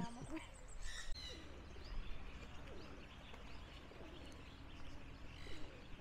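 Birds chirping and calling, with a couple of brighter calls about a second in.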